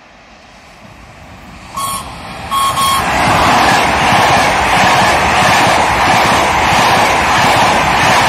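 Trenitalia Intercity train drawing near and then running past at close range, its noise building steadily. The horn sounds three short blasts about two seconds in. After that the loud, steady rumble of wheels on rails from the passing coaches.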